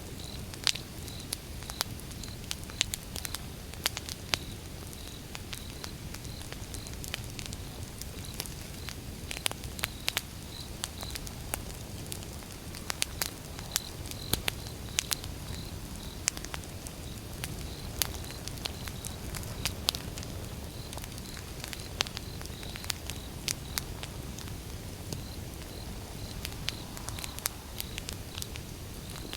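Wood bonfire burning: sharp, irregular crackles and pops from the burning logs over a low, steady rumble of the flames.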